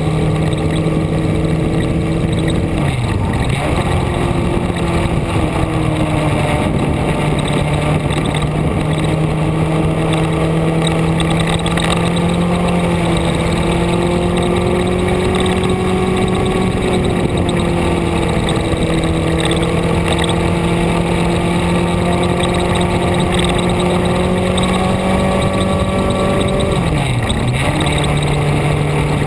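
A vehicle's engine runs at fairly steady revs while driving. Its pitch dips briefly about three seconds in and again near the end, as at gear changes.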